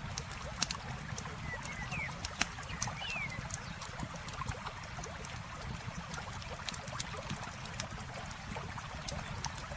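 Campfire crackling with frequent sharp pops and snaps, over the steady sound of a river flowing. Two short, high chirps come about two and three seconds in.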